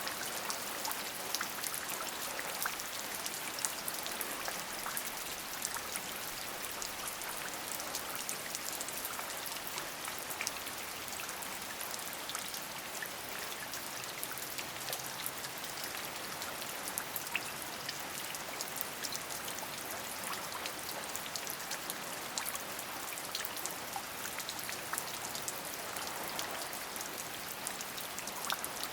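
Steady rain: an even hiss of falling rain with many separate drops ticking through it.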